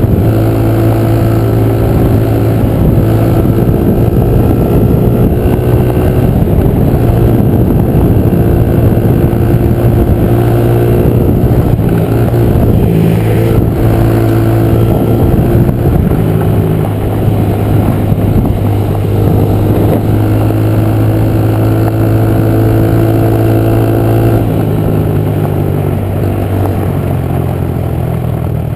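Honda 50 pit bike's single-cylinder engine running hard close to the mic while being ridden, its pitch rising and falling as the throttle is worked, with a clear drop in engine note about twenty-four seconds in.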